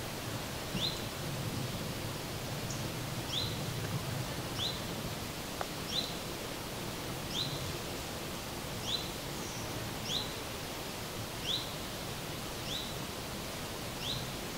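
A bird repeating a short, rising chirp about every second and a half, over a steady hiss of outdoor background noise.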